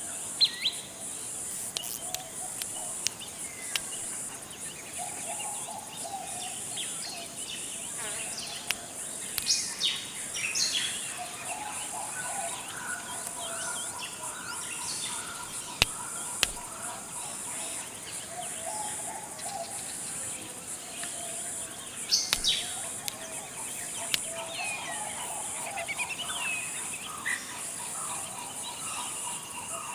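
Tropical forest ambience: a steady, high insect chorus drones throughout, with scattered bird calls over it: short chirps, quick whistled sweeps, and low warbling calls that recur every few seconds. A few sharp clicks stand out.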